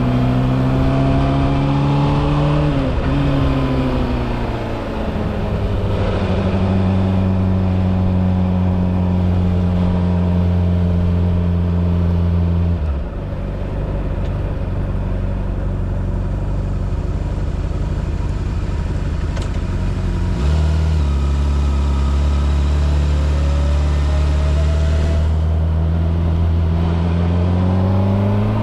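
Honda CBR600RR's inline-four engine running, its pitch rising and falling, holding steady for long stretches with a couple of sudden drops, and climbing again near the end.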